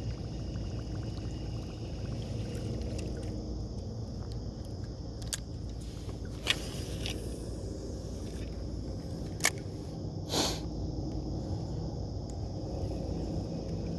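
Creek-side outdoor ambience: a steady low rumble of water and wind with a high, even insect drone. A few sharp clicks and one brief swish about ten seconds in.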